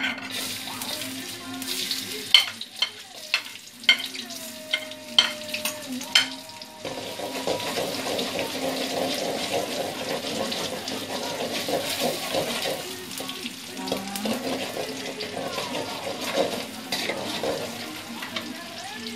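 Onion and garlic seasoning frying in hot oil in a metal wok, stirred with a metal spatula. For the first few seconds sharp clicks and scrapes of the spatula on the wok stand out over the sizzle. From about seven seconds in the sizzle turns steadier and fuller.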